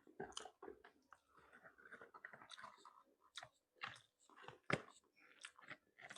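Faint, close-up chewing and biting of seafood: irregular wet mouth clicks and small crunches, with one sharper crunch about three-quarters of the way through.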